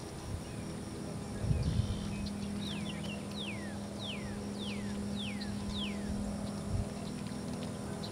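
A bird calls a run of about six whistled notes, each sliding down in pitch, roughly one every half second, over a steady low hum. A low thump comes about a second and a half in.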